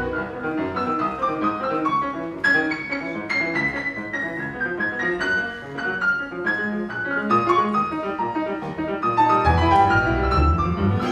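Piano with string orchestra in a concerto, live: the piano plays runs of quick notes, many of them falling. Low strings come in heavily near the end.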